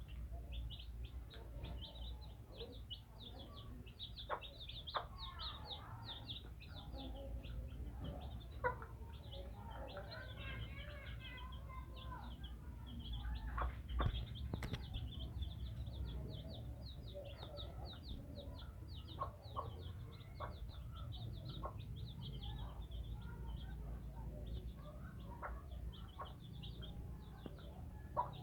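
Young chick peeping continuously in rapid, high, short downward-sliding notes, with scattered sharp taps as it pecks at rice, over a low steady rumble.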